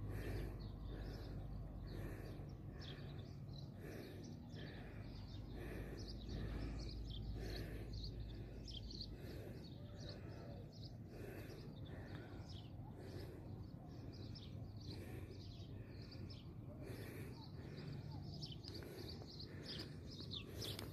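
Birds chirping, many short quick falling notes repeated throughout, over a low rumble that eases about nine seconds in.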